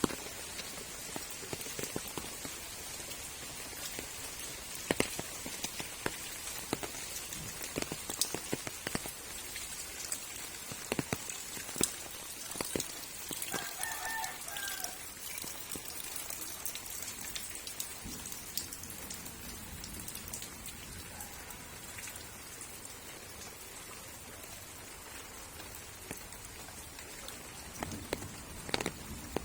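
Water dripping and spattering after rain: scattered irregular drops over a light steady hiss. A rooster crows once about halfway through.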